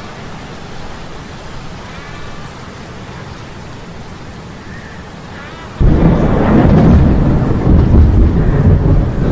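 A steady hiss of storm rain with a faint wavering metallic hum. About six seconds in, a loud clap of thunder breaks in suddenly and rumbles on.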